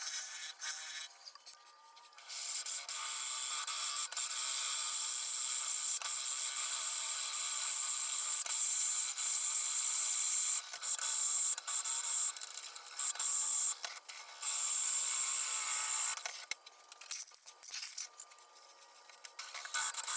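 Cottonwood spinning on a wood lathe, worked by a tool or abrasive against the wood: a steady, rough scraping hiss in long stretches, broken by a few short pauses and quieter near the end.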